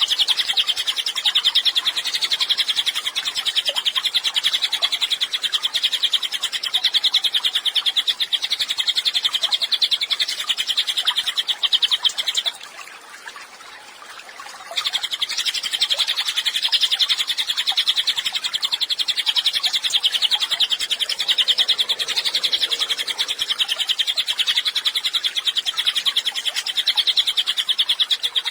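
A cililin songbird singing in a fast, unbroken trill of rapid high notes. It stops for about two seconds halfway through, then carries on.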